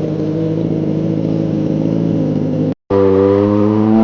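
A 2019 Kawasaki ZX-10R's inline-four engine idling steadily while it warms up. About three-quarters through, the sound cuts out for a split second and returns louder, the engine note climbing slowly.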